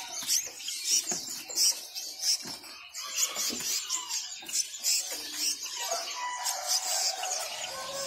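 Many caged birds chirping at once: a dense chatter of short, high chirps, with a few lower whistled notes gliding now and then.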